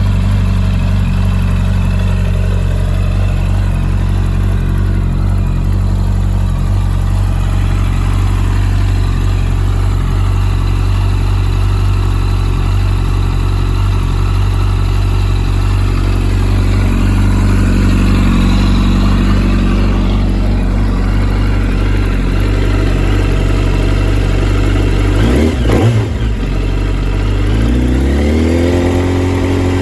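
2007 Yamaha YZF-R1's inline-four engine idling steadily through a full Akrapovič exhaust system. Near the end the throttle is blipped once quickly, then opened again in a longer rev that rises and falls back to idle.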